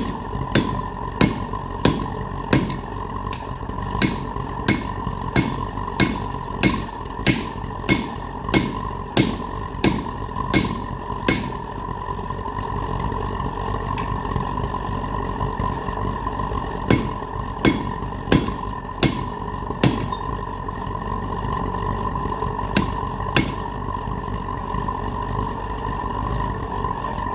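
Hammer blows on hot steel against an anvil, a steady rhythm of about three strikes every two seconds that stops about eleven seconds in, followed by two short groups of blows later on. A steady hum runs underneath.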